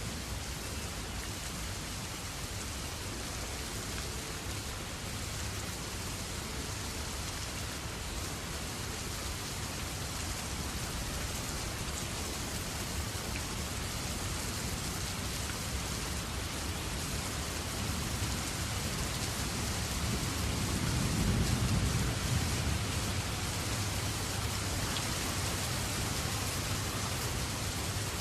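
Steady rain falling, with a low rumble that swells about three quarters of the way through.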